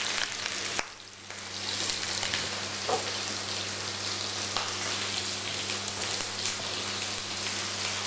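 Sliced red peppers and cabbage, with chicken thighs in a second pan, frying in olive oil: a steady sizzle with fine crackles that dips briefly about a second in.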